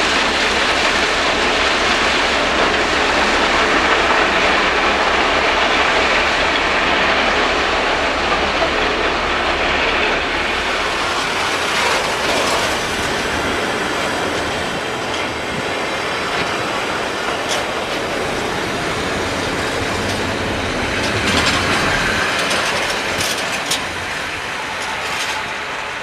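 Freight train of hopper wagons rolling past close by, the wheels clacking over the rail joints. A deep drone from the EMD diesel locomotive hauling it fades out about ten seconds in, leaving the wagons' rolling and clacking.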